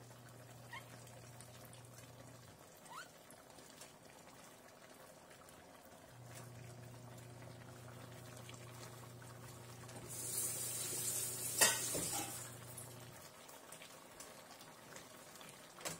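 Sliced bell peppers and jalapeño sizzling in a hot frying pan with beef and onions, stirred with a spatula. The sizzle grows louder for a couple of seconds about ten seconds in, with a sharp clack of the utensil against the pan.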